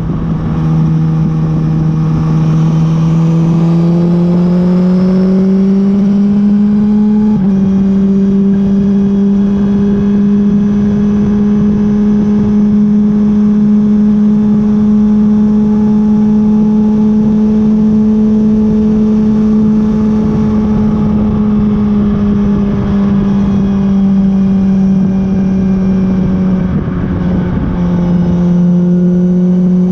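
Honda CB1000R's inline-four engine under way, its pitch rising steadily with acceleration for about seven seconds, then holding steady, dipping slightly near the end.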